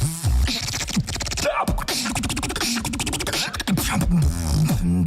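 Beatboxing: a dense run of sharp vocal clicks and snares over deep hummed bass and pitched vocal tones.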